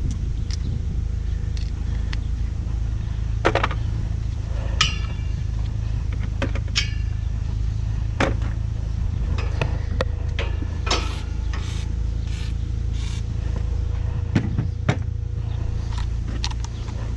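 Scattered clicks and ringing metal clinks from a hand tool working on fasteners of an old Carrier round condenser, over a steady low hum.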